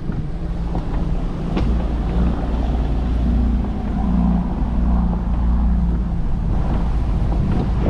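Car engine running with a low steady hum that grows louder for a few seconds in the middle, while the car drives through storm-surge floodwater, with a rushing noise of wind and water.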